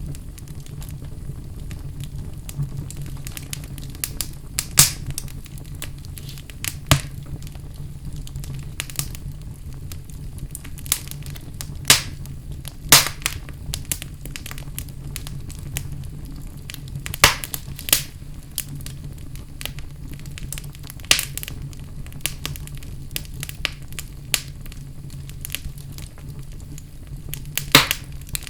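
Wood fire burning in a fireplace: a steady low rumble of flame with sharp crackles and pops at irregular intervals.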